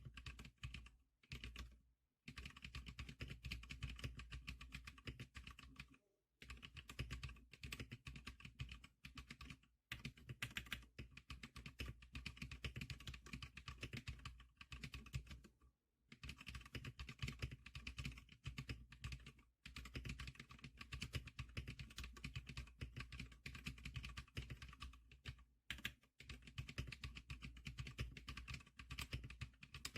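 Typing on a Zclicker SPK100 keyboard: fast, dense runs of key clicks broken by short pauses every few seconds.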